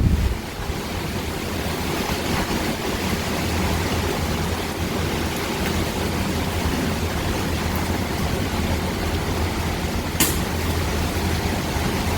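Hurricane wind buffeting the microphone with a steady low rumble, over the hiss of rain. A single sharp click about ten seconds in.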